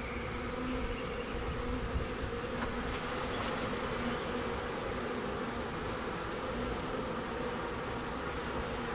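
Honey bee swarm buzzing, a steady dense hum of many bees close by, with one light knock about two seconds in.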